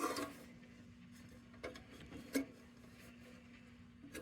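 A few light clicks and knocks from handling a metal lantern, the loudest about two and a half seconds in, over a faint steady hum.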